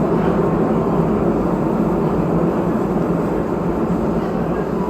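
Steady running noise of an R188 subway car heard from inside: wheels on the rails and the car's motors, slowly getting a little quieter.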